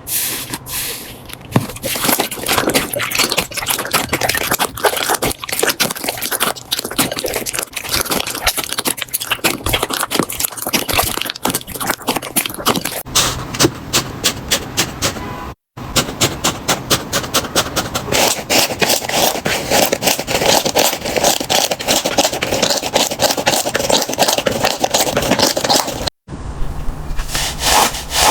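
Slime being squeezed and pressed by hand, making a dense run of rapid crackles and clicks. The sound breaks off for a moment twice, about halfway and near the end, as one clip cuts to the next.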